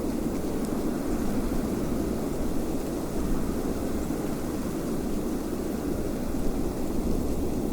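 Steady, low wind noise, an even rushing sound without distinct gusts.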